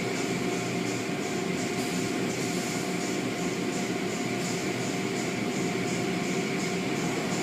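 Automated car wash machinery running steadily: a constant mechanical noise with a few steady hum tones and a faint, even pulsing in the high range.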